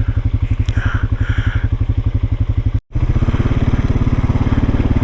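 Off-road vehicle engine, most likely an ATV, running steadily at low speed with an even chugging beat. The sound cuts out for an instant just under three seconds in, then carries on.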